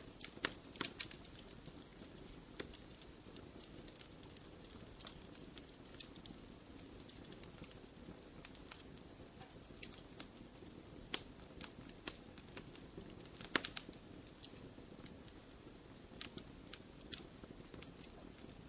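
Wood fire crackling in a fireplace: irregular sharp pops and snaps over a soft steady hiss, with louder clusters of pops about a second in and again about thirteen seconds in.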